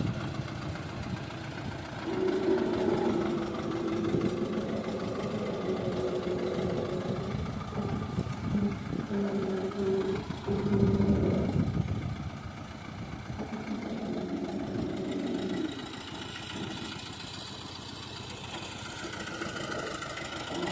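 HMT tractor's diesel engine running, its note rising and falling, loudest about eleven seconds in.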